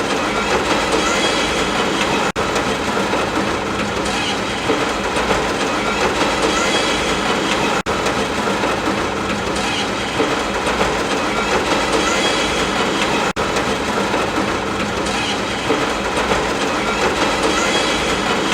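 Steady, dense noise from a looped sleep-ambience track, cut by a brief dropout about every five and a half seconds where the loop restarts.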